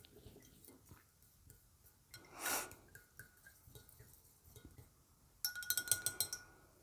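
Stir stick clinking lightly against the inside of a glass vase holding baby oil and paint-water, with faint scattered taps, a brief soft whoosh about two and a half seconds in, and a quick run of rattling clinks near the end.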